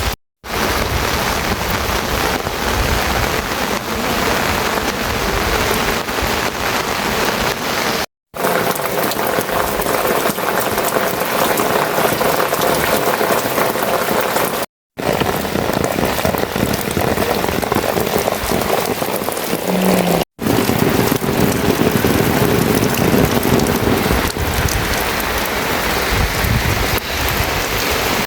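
Rain falling steadily, a dense even hiss of drops on surfaces, broken by a few split-second silent gaps.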